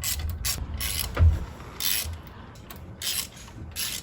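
Hand ratchet wrench clicking in short strokes while running in the water pump bolts on a 2001 GMC Sierra 2500 engine, with one heavier knock about a second in.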